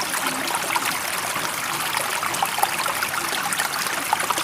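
Steady trickling, babbling water, full of small splashes and bubbles, with no rise and fall of waves.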